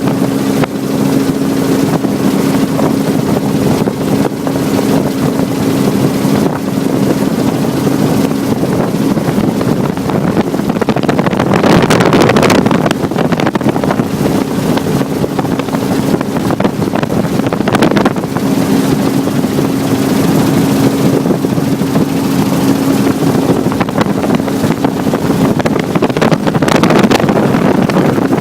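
Helicopter engine and rotor running steadily, heard from on board, with a steady low drone. Wind buffets the microphone in a few brief surges.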